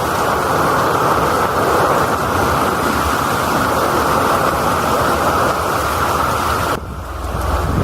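Steady rush of heavy typhoon rain and running water. About seven seconds in it cuts off abruptly, leaving a low wind rumble on the microphone.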